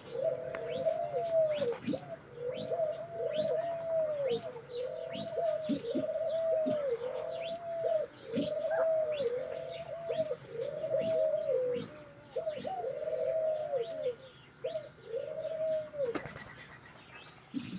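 Birds in an aviary calling together: a steady run of arching, cooing calls, roughly one a second and overlapping, over many thin, high, quick chirps from small birds. The cooing stops near the end.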